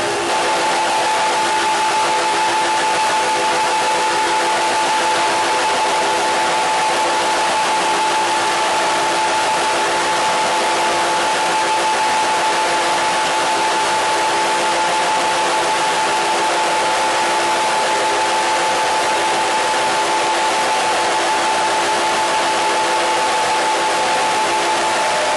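Steady hiss of radio static with a few steady tones running through it, unchanging in level.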